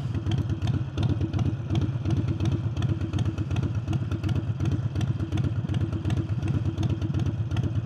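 Harley-Davidson Forty-Eight's air-cooled V-twin engine, fitted with a new air intake, running steadily with an even low pulsing beat.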